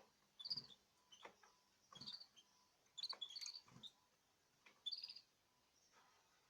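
Faint short, high chirps from a small cage bird, in four brief bursts about a second apart, mixed with light clicks and rustles in the cage.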